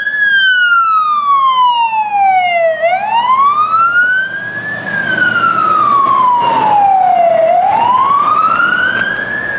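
Fire truck siren wailing, its pitch sliding slowly down over about three seconds, then back up over about two, twice in a row. A thin, steady high whistle joins it about halfway through.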